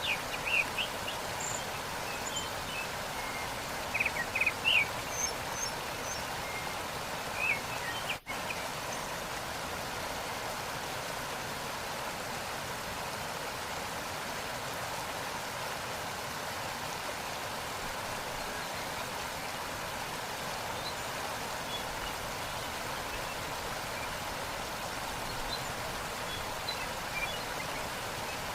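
Steady rush of a waterfall, with birds chirping in short scattered calls over the first several seconds and faintly again near the end. The sound cuts out for an instant about eight seconds in.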